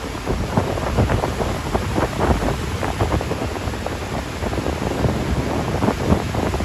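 Strong wind buffeting the microphone: a constant low rumble with irregular crackling gusts.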